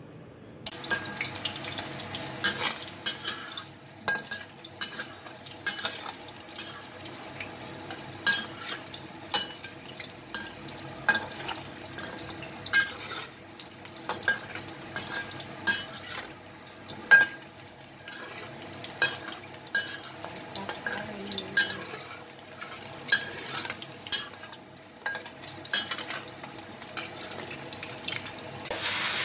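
Potato chunks frying in oil in a wok, with a steady sizzle, while a metal spatula turns them, clinking and scraping against the pan at irregular intervals. The sizzle swells right at the end.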